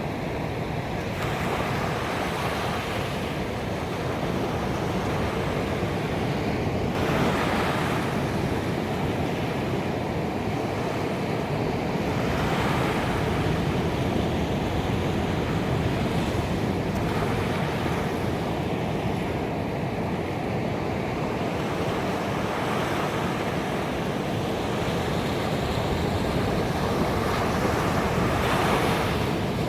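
Ocean waves breaking on a beach: a steady rush of surf that swells as a wave crashes, about every five seconds.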